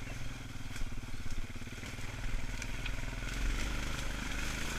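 ATV engine running steadily, with a few light clicks and crackles over it.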